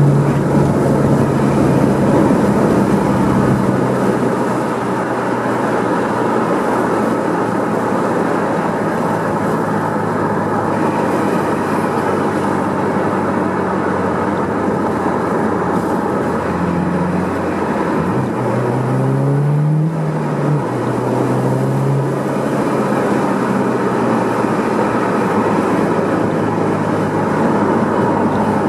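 Subaru WRX STI (VAB) with a Kakimoto aftermarket exhaust, its turbocharged flat-four running steadily under way. About two-thirds of the way through, the revs climb for a couple of seconds, then drop back suddenly and settle again.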